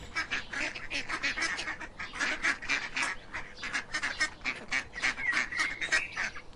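Ducks quacking: a rapid, unbroken run of short quacks, several a second.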